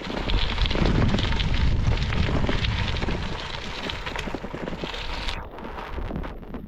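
Gravel bike tyres rolling over a loose gravel trail, a dense crunching crackle that eases off about five seconds in.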